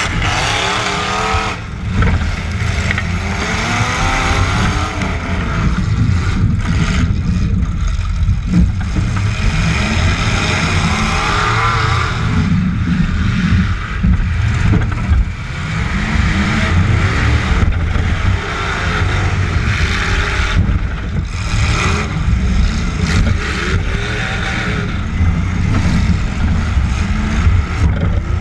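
Demolition derby truck engines revving up and down under hard throttle, with several sharp knocks or bangs through the run.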